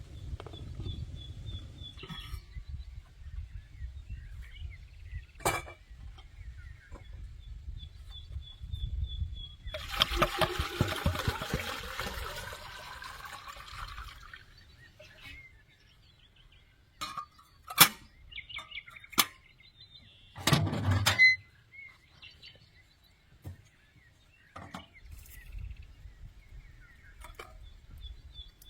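Small birds singing in runs of quick high notes, over a faint low rumble of wind, with a few seconds of liquid pouring about ten seconds in and scattered sharp clinks and knocks of cooking utensils, the loudest a little past halfway.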